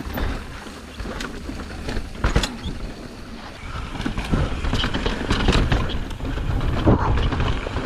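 Mountain bike riding down a dry, loose dirt trail: wind buffeting the microphone, tyres running over dirt and rocks, and frequent knocks and rattles from the bike over bumps. It gets louder about halfway through.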